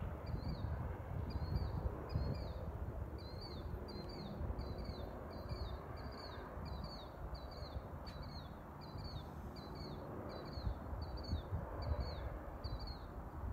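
A small bird repeating a short, high, falling note about twice a second, stopping near the end, over a steady low rumble.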